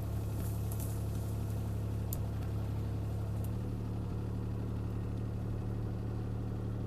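CAT 303C CR mini excavator's diesel engine running steadily, a low even hum, with a couple of faint clicks.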